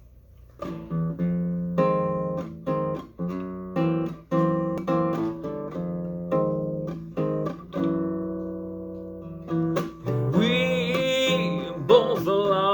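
Acoustic guitar playing a bossa nova intro, plucked chords in a syncopated rhythm. About ten seconds in, a wordless voice joins over the guitar.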